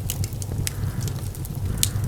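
Fire burning in a fireplace: a steady low rumble with scattered sharp crackles and pops, the loudest near the end.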